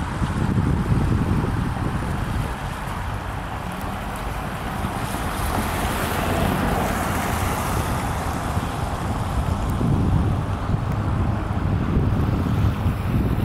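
EMD F40FH diesel-electric locomotives hauling a train, a steady low engine rumble with a swell of hiss about halfway through, mixed with wind buffeting the microphone.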